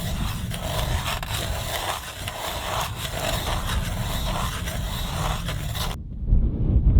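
Hand ice auger's steel blades scraping and shaving through thick lake ice, coming in repeated swells. About six seconds in the scraping cuts off abruptly and low wind rumbles on the microphone.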